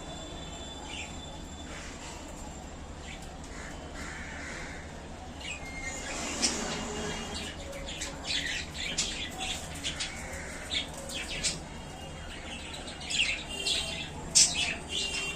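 Budgerigars chirping in quick, short, sharp calls, sparse at first and coming thick from about six seconds in.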